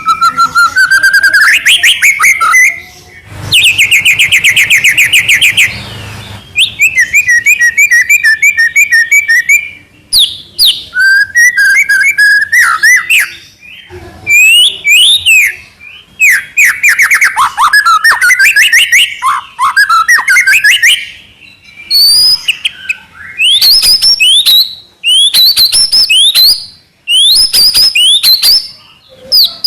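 White-rumped shama (murai batu) singing loudly in a long run of varied phrases: clear whistles, quick rising sweeps and rapid repeated trills, broken by short pauses. This is the fast, non-stop song keepers call 'trotol gacor'.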